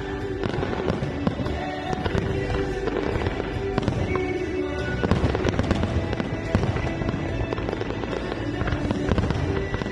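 Aerial fireworks bursting and crackling in a dense, continuous barrage, with music playing alongside.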